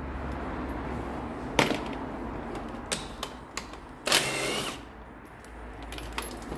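Mechanic's hand tools and metal parts clicking and clattering during a clutch job, with a sharp click about one and a half seconds in and a louder half-second rattle about four seconds in.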